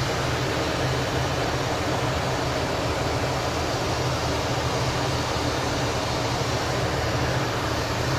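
Steady cockpit noise of a twin-engine jet at cruise altitude: an even rush of airflow and engine noise over a low, constant drone.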